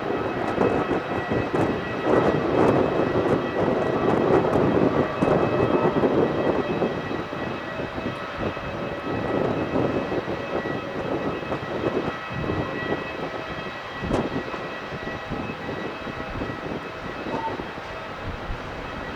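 Boeing 777 jet engines with a deep rumble and a faint steady whine, loudest over the first several seconds and then slowly fading as the airliner lands.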